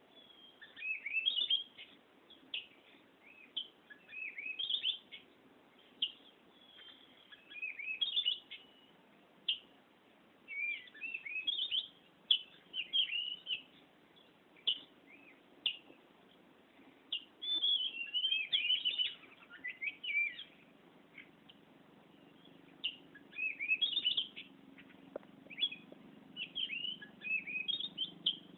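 Oriental magpie-robin (kacer) singing continuously in a rolling run of short, varied whistled phrases of sliding notes, with brief pauses between bursts.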